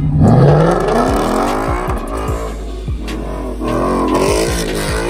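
Ford Mustang's engine revving hard as the car spins a smoky donut on its rear tyres. The pitch climbs steeply in the first second, then rises and falls with the throttle.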